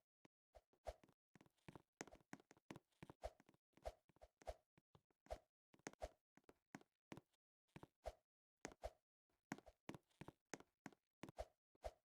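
A run of short, soft taps or clicks, irregularly spaced at roughly two to three a second, with near silence between them.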